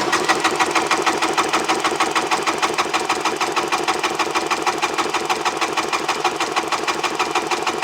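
Electric starter cranking the 1995 Polaris SL 750's three-cylinder two-stroke engine over with a steady, even chugging rhythm, for a compression test of the middle cylinder.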